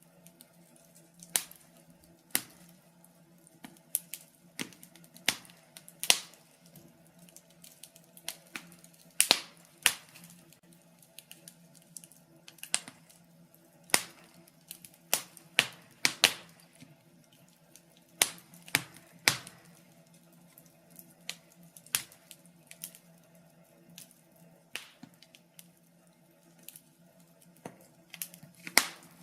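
Logs burning in a fireplace, crackling with irregular sharp pops and snaps of varying strength, over a faint steady low hum.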